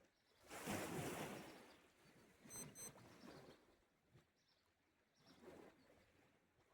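Small sea waves washing onto the shore: one fuller wash starting about half a second in and fading over about a second, and a weaker one later. Two very short, high-pitched chirps sound close together just before the middle.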